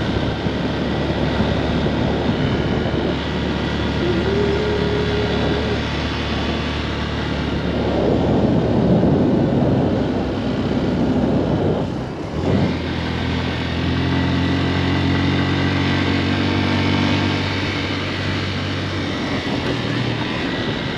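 Motorcycle engine running while under way on a rough road, with wind noise on the microphone. The engine note dips briefly about twelve seconds in, then holds steady.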